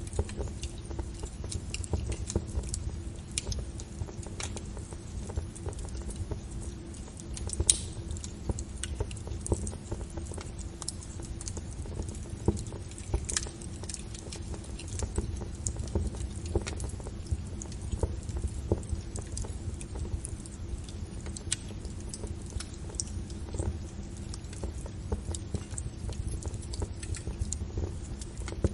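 Fire crackling: an irregular stream of sharp pops and snaps, with a few louder pops now and then, over a steady low rumble of burning.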